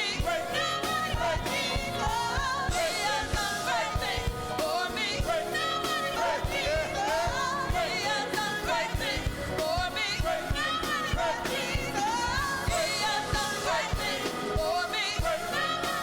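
Live gospel praise music: a lead singer ad-libs in sliding vocal runs over a band with a steady drum beat.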